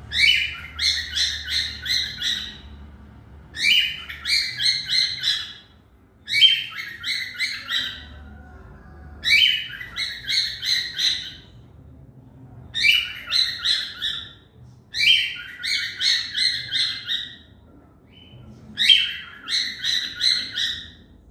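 Cockatiel calling in seven repeated bursts, each a quick run of about half a dozen short chirps that opens with a rising note, a new burst every three seconds or so.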